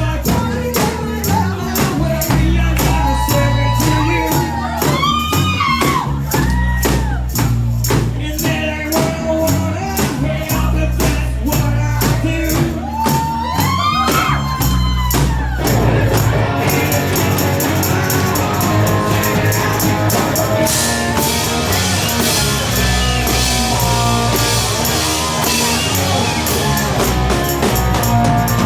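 Live rock band playing: a singer over a steady beat with tambourine, then a little past halfway the vocal stops and the band plays on without it, drums and cymbals growing louder.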